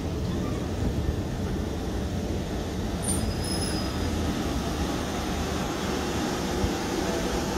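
Southern Class 377 electric multiple unit moving along the platform: a steady rumble of wheels on rail, with a brief faint high squeal about three seconds in.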